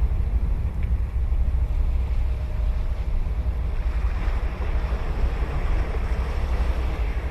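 Ocean surf breaking and washing up the beach, swelling about halfway through, under a heavy low rumble of wind buffeting the microphone.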